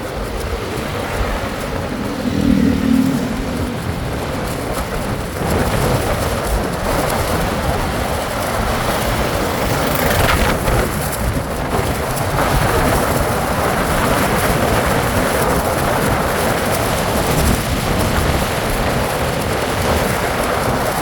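Steady rushing wind and road noise from riding a bike, with a brief low tone about two and a half seconds in.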